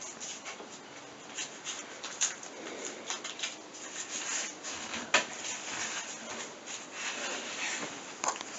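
Handling noise from a hand-held camera: irregular rustling and rubbing with scattered light clicks and knocks, and one sharper knock about five seconds in.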